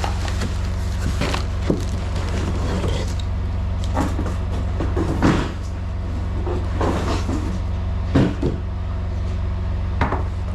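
Semi truck's diesel engine idling steadily, with scattered knocks, clicks and rustling from hand work over it.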